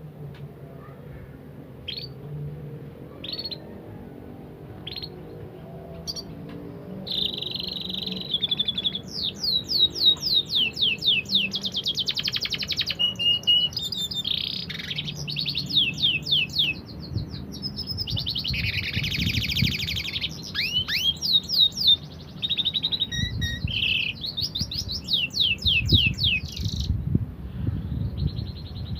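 Canary singing: a few single high chirps spaced apart, then from about seven seconds in a near-continuous fast song of rapid trills and quick falling note runs.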